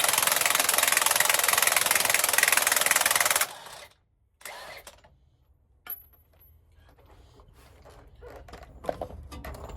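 Pneumatic air tool hammering rapidly at full power on a driveshaft yoke and carrier bearing, cutting off suddenly about three and a half seconds in. After that come a few light metallic clicks and knocks of parts being handled.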